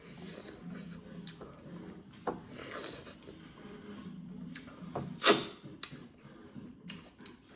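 Scattered light clicks and knocks, with one loud sharp knock about five seconds in, over a steady low hum.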